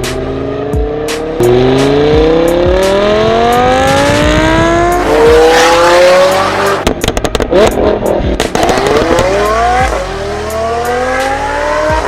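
Lamborghini Huracán LP610-4's V10 breathing through a Fi aftermarket exhaust, accelerating hard with the pitch rising steadily and a gear change about five seconds in. About seven seconds in comes a burst of sharp crackles and pops as the revs drop, then the engine pulls up through the revs again.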